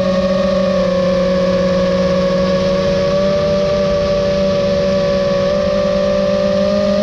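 Nazgul FPV quadcopter's motors and propellers whining at a steady throttle: a held, multi-toned buzz with only a slight dip in pitch about five and a half seconds in.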